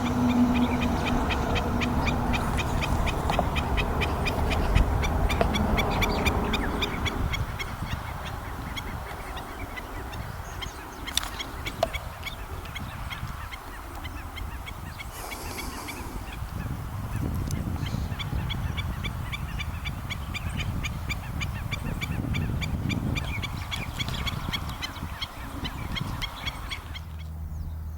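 Waterbirds calling in quick, evenly repeated yapping notes, several a second with a few short pauses, over a low rumble.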